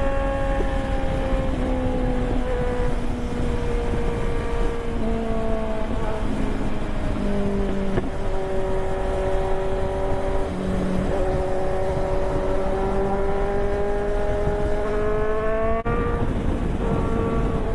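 Superbike engine running under way, its note falling slowly over the first several seconds and then climbing again, with a brief break near the end, over a steady low rumble.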